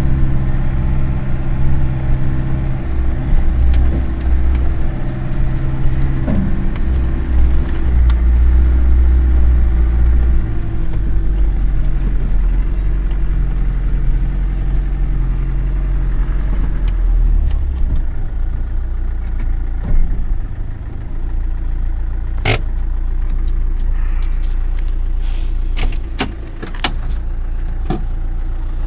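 Land Rover Defender engine running steadily while the vehicle is working as a log tractor, then settling to a quieter, lower run about two-thirds of the way in. Several sharp knocks come near the end.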